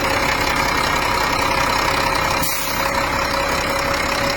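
Wheel loader's diesel engine idling steadily, with a steady whine running through it. The engine sounds crisp, a sign of a healthy engine.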